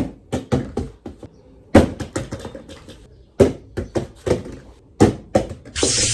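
A string of sharp, irregularly spaced knocks and taps, each ringing briefly, then a rush of hiss starting near the end.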